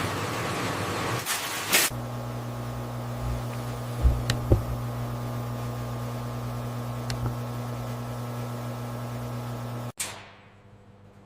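Noisy machine whir that changes about two seconds in to a steady low electrical hum, with a few dull knocks a couple of seconds later. The sound cuts off abruptly near the end.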